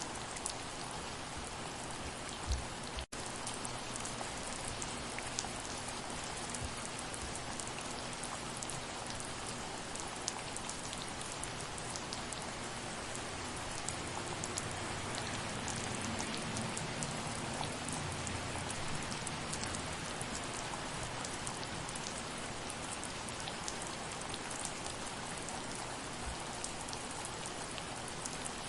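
Soft, steady rain falling, with many individual drops ticking on a surface. There is a split-second dropout about three seconds in.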